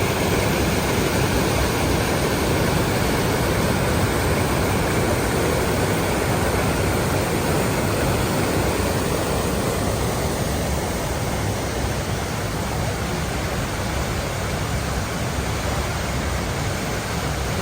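Steady rushing roar of falling water from the Düden waterfall.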